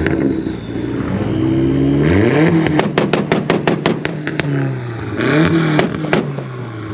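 A vehicle engine revved hard twice, its pitch climbing steeply each time, with a rapid string of sharp pops at the top of each rev.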